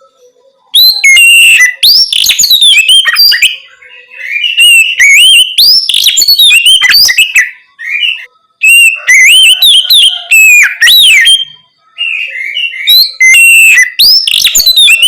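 Oriental magpie-robin (kacer) singing its loud, open 'ngeplong' song: fast, varied whistled phrases that rise and fall. The song comes in four bursts of about three seconds each, with short pauses between them.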